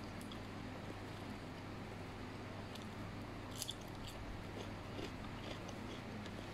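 A person chewing a mouthful of fried noodles close to the microphone. A few faint soft clicks come through, the sharpest about three and a half seconds in.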